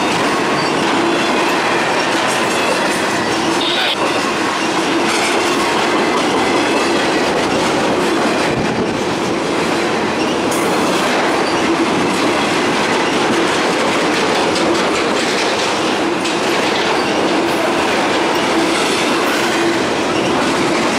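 Intermodal freight cars rolling past: a steady rumble and clatter of steel wheels on the rails, with scattered clicks and a steady ringing tone underneath.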